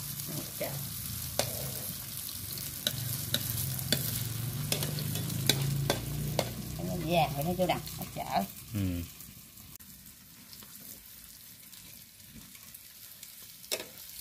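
Batter with small freshwater shrimp frying in hot oil in a pan: a steady sizzle with scattered sharp crackles and pops. A low hum runs underneath and cuts off about nine seconds in, after which the sizzle goes on more quietly.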